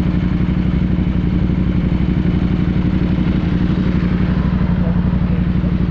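Motorcycle engine running steadily at a constant pitch with a fast, even exhaust pulse, after river water has got into its exhaust.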